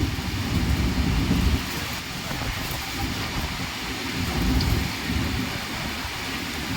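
Mithila Express passenger train running, heard on board: a steady rushing noise over a low rumble that eases a little about two seconds in.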